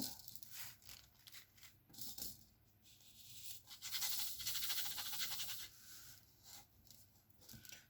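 Small plastic diamond-painting drills rattling in a tray as it is shaken for about two seconds in the middle, amid scattered light clicks and taps.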